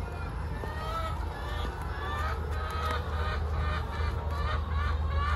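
Birds calling over and over in short chirping calls, coming thicker near the end, over a steady low rumble.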